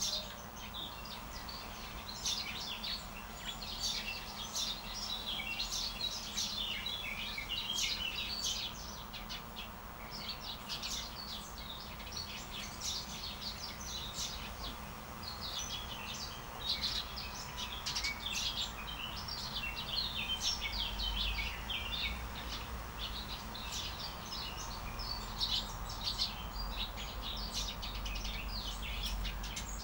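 A chorus of small birds chirping, many short high chirps overlapping without a break, over a faint low background hum.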